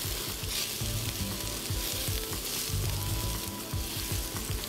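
Chopped onions and garlic sizzling in coconut oil in a heavy black pot, with a silicone spatula scraping and knocking against the pot's bottom as they are stirred. The onions and garlic are caramelizing.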